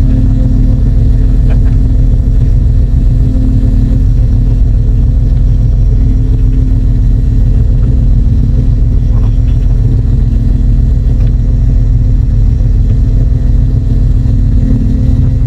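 Fishing boat's engine running steadily, a deep, unchanging rumble with a constant hum.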